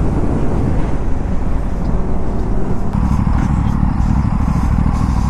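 Wind buffeting a motorcycle rider's microphone at highway cruising speed, with motorcycle engines running underneath; the low rumble grows heavier about three seconds in.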